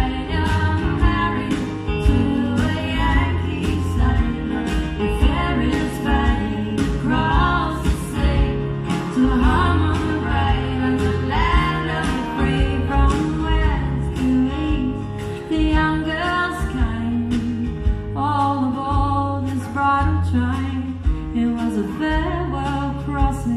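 Live folk band performing, women's voices singing the melody over a band accompaniment with a steady beat and a prominent bass, recorded on a camera phone in the audience.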